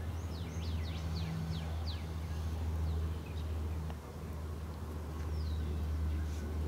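Small birds chirping, a run of short, quick falling calls at the start and a few scattered ones later, over a steady low rumble.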